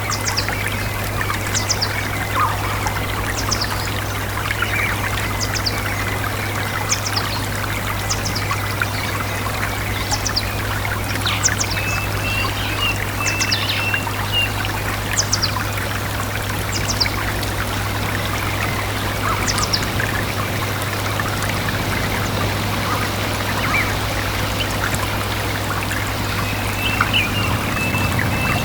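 Stream water trickling and gurgling steadily. A small bird repeats short, high chirps that drop in pitch, roughly one every second or two, with a few lower short notes. A steady low hum runs underneath.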